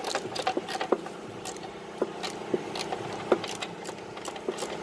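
Irregular metallic clicks and light knocks of hand work on a car's engine bay during engine removal, over a steady hum.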